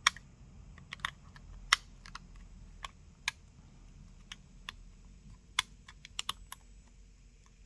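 Scattered sharp little clicks and taps of small repair tools and parts against an opened smartphone's frame, irregular, with a quick cluster of several about six seconds in.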